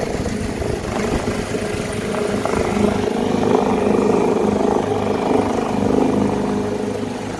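Air ambulance helicopter running its engines and rotor at takeoff power close by, a steady rotor beat under an engine hum. It grows louder about halfway through, then eases slightly near the end.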